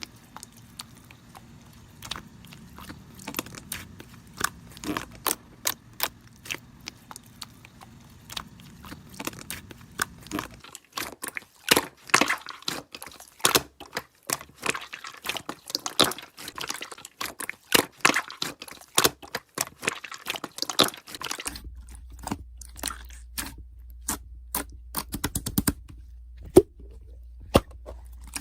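Slime being squeezed and pressed by hand, making rapid sharp clicks and pops. The low background hum changes abruptly twice, about ten and twenty-one seconds in.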